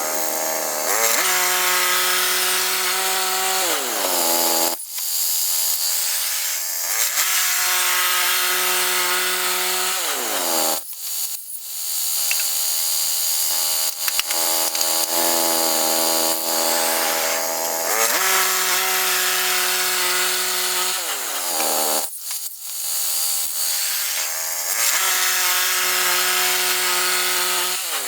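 Woodland Mills HM122 band sawmill running, its engine driving the blade through a pine log. The steady engine pitch rises and then falls away several times, with a few short breaks in the sound.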